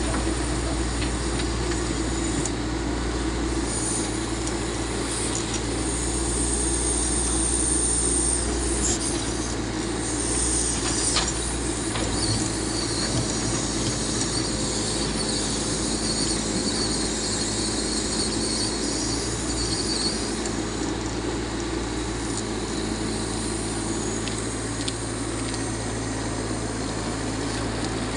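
Backhoe loader's diesel engine running steadily as it digs, with high squeals coming and going, one from about four to eight seconds in and a longer one from about twelve to twenty seconds, and a few knocks in between.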